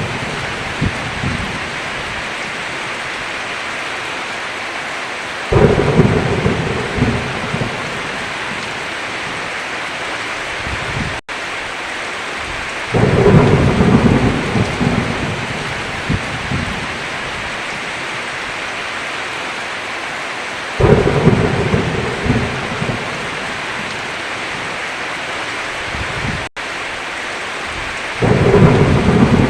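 Steady heavy rain with thunder rumbling in four times, about every seven and a half seconds. Each rumble starts suddenly and fades over a couple of seconds. The sound cuts out for a split second twice.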